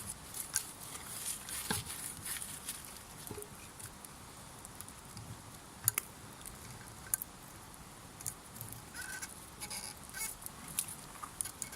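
Wood campfire crackling and popping in irregular sharp snaps, two louder pops about six and seven seconds in.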